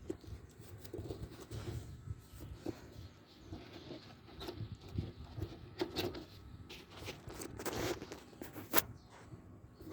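Handling noise from unboxing a mini ceiling fan: irregular rustling and scraping of packaging, with scattered sharp clicks and knocks, the loudest near the end.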